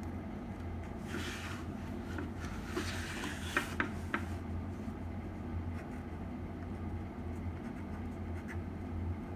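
Slime being pressed and squished by hand, making crackly, crunchy rustling noise between about one and four seconds in, with a few sharp pops, then only faint clicks over a steady low hum.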